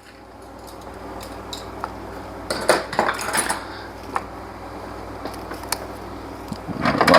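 Metal hand tools and sockets clinking and clanking as they are sorted through, a string of irregular sharp clinks, thickest about three seconds in.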